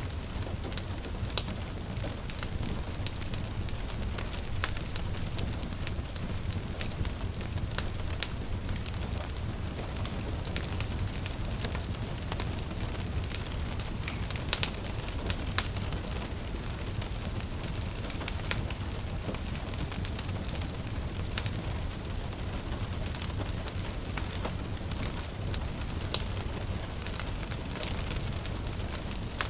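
Wood fire crackling with frequent sharp pops, over a steady low rumble and a soft hiss of gentle rain.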